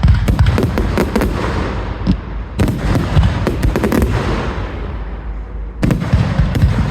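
Fireworks going off in quick succession: repeated sharp bangs and crackling, in dense clusters near the start, in the middle, and again near the end.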